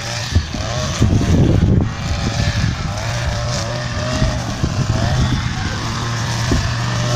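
Diesel engine of an MTZ-82 tractor running steadily with a constant low hum.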